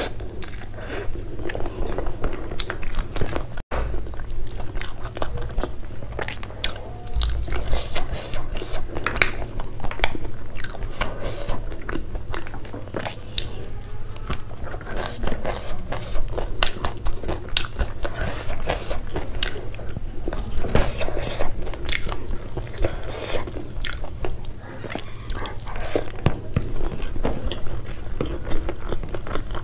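Close-miked chewing and crunching of a person eating with her fingers, a dense run of short crisp mouth clicks and bites. The sound cuts out for an instant about four seconds in.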